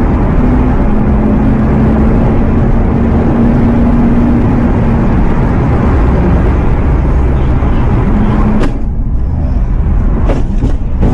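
Motor vehicle on the move: loud, steady road and engine noise with a held hum for the first few seconds. The sound changes abruptly near the end, with a few sharp clicks.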